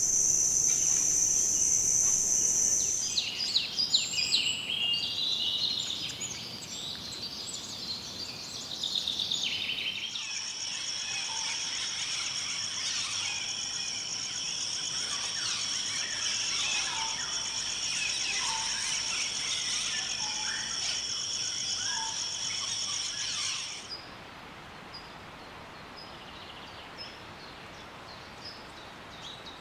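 Rainforest insects and birds: a steady high-pitched insect drone with many varied bird chirps and calls over it. The mix changes abruptly about three, ten and twenty-four seconds in, and the last part is quieter, with only scattered chirps.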